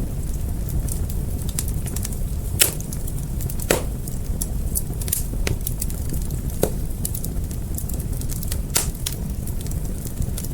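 Wood fire burning with a steady low rumble and irregular sharp crackles and pops, a few of them louder, one about two and a half seconds in and another just under four seconds in.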